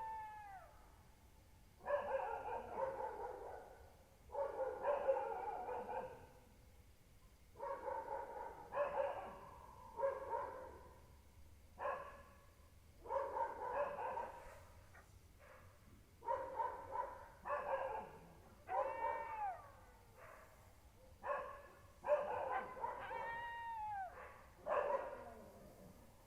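An animal crying out over and over: about a dozen wailing calls, each a second or two long with short gaps between, several of them rising and then falling in pitch.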